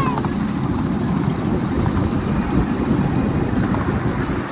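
Steady low rumble of a miniature passenger train running along its track.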